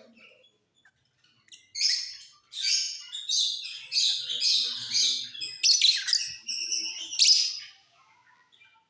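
Lovebirds chirping: after a quiet start, a run of loud, high, chattering chirps about a second and a half in, which stops near the end.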